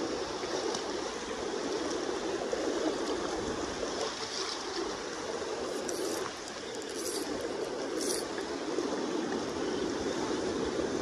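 River current flowing steadily, a constant rushing wash of water. A few short hissing sounds come through about six, seven and eight seconds in.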